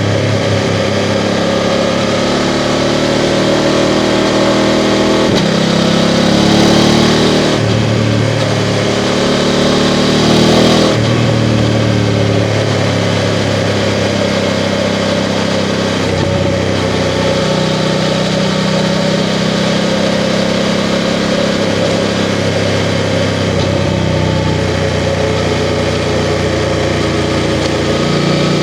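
BMW F 750 GS's 853 cc parallel-twin engine under way, its note climbing and stepping a few times between about five and eleven seconds in as the rider opens the throttle and changes gear, then running more steadily. A constant rush of wind noise runs beneath it.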